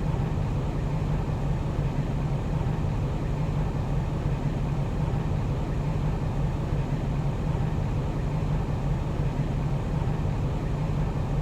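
Steady low hum over a constant noise bed, unchanging throughout, with no separate events.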